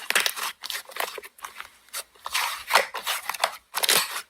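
Slime being squished and pressed by hand, a run of irregular short squishes.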